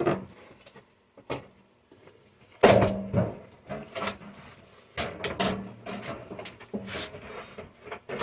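Thin sheet-steel microwave cover being worked off the chassis and handled, with irregular knocks, clanks and rattles of the metal. The loudest clank comes about two and a half seconds in.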